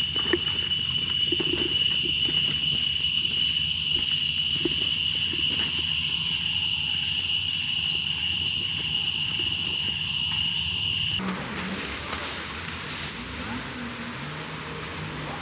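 Loud, steady, high-pitched insect drone, typical of cicadas, which stops abruptly about eleven seconds in. After that there is a quieter outdoor wash of noise with a faint low hum.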